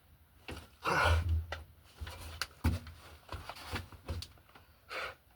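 Irregular knocks, rustles and scrapes of a person shifting about and handling tools on attic joists, with a louder thud and rush of noise about a second in and another short burst near the end.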